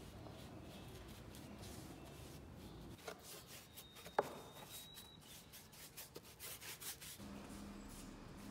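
Faint scraping and rubbing strokes of a palette knife spreading thick white paste over a folded cloth canvas, with one sharp click a little after four seconds in.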